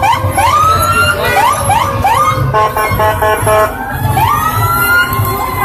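Fire truck siren sounding in a quick series of short rising whoops, then one longer rise that slowly falls away, with a few short horn blasts in the middle and the trucks' engines rumbling underneath.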